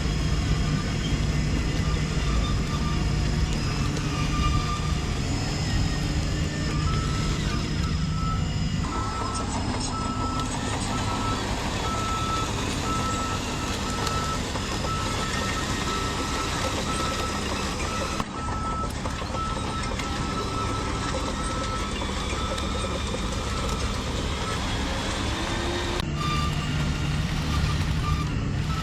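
RC model truck's sound unit running with a steady engine sound, and a reversing beeper sounding over and over at a steady pace for about fifteen seconds from about seven seconds in.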